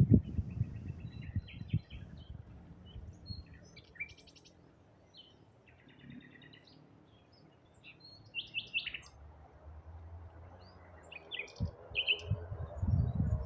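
Wild songbirds chirping and calling in woodland: short, varied notes and trills from several birds scattered throughout. A low rumble is heard at the start and again near the end.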